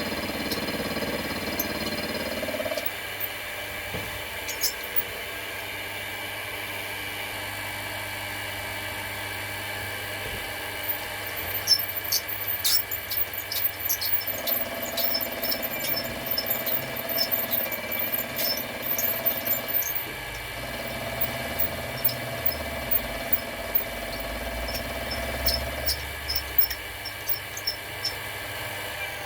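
Mini milling machine running with a steady motor whine and hum. From about a third of the way in, sharp ticks and crackles come and go as the cutter works the aluminium, and the hum shifts in pitch a few times.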